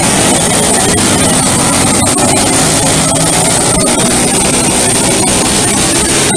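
Racing go-kart engine noise, loud, steady and distorted, with no letup.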